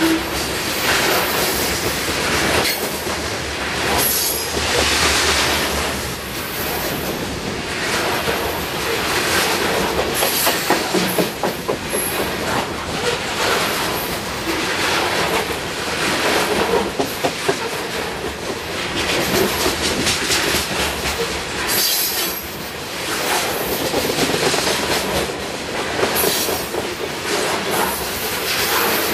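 Coal train hopper cars rolling past at close range, a continuous rumble and clatter of steel wheels on rail that swells in regular pulses as each truck passes.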